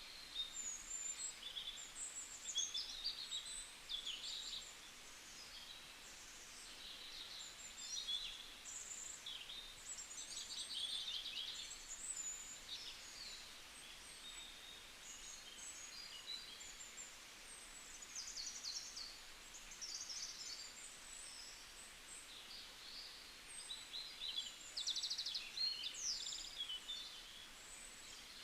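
Small birds chirping and singing: many short, quick chirps and trills overlapping without a break, over a faint steady hiss.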